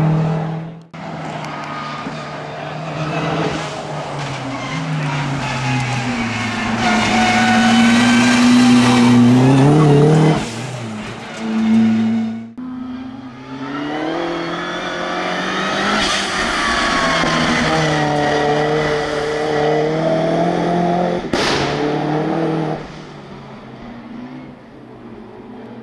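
Ford Focus RS Mk1 rally car's turbocharged four-cylinder engine revving hard, its note climbing and dropping with each gear change as it accelerates through the bends. The sound breaks off sharply about a second in and again about halfway, where the shots change, and fades away near the end as the car drives off.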